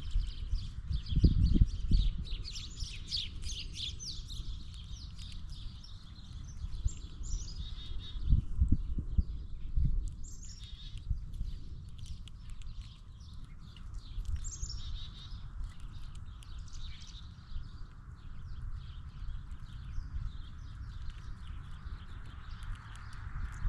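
Wild birds chirping and calling in quick repeated short notes, busiest in the first half, with a few low thumps and knocks about two seconds in and again around nine seconds.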